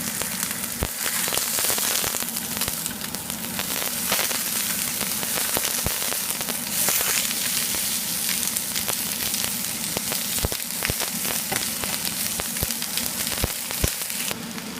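Mushrooms, red onion, peppers and green curry paste sizzling as they sear in a hot pan, a steady hiss with a few sharp clicks scattered through it.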